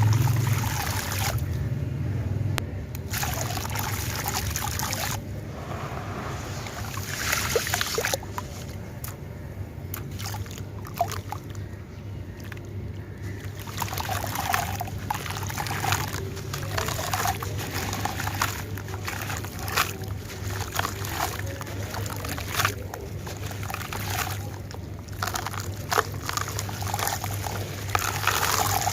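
Centre-filled, bucket-shaped stone-texture chunks crumbling and crunching in water: uneven bursts of gritty crackling and clicking, with water sloshing and trickling. A steady low hum runs underneath.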